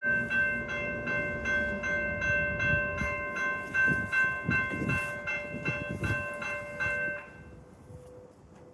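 Grade-crossing warning bell ringing rapidly, about three strikes a second, over the low rumble of a CTA Brown Line train running past. The bell and rumble stop about seven seconds in.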